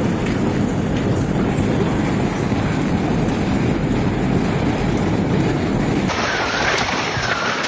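Dense, rumbling storm noise. It cuts off about six seconds in, giving way to a quieter scene with a high swooping tone repeated several times.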